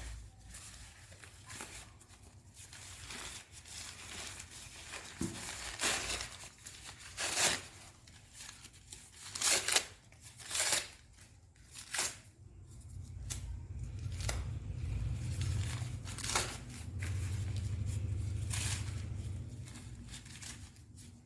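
Packaging being cut and torn open: a string of separate ripping and snipping strokes with crinkling wrap between them. A low hum sits underneath through much of the second half.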